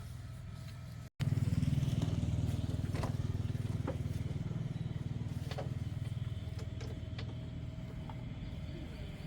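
An engine running steadily with a low, even throb. It cuts out abruptly about a second in, comes back louder and eases off slowly, with a few light clicks over it.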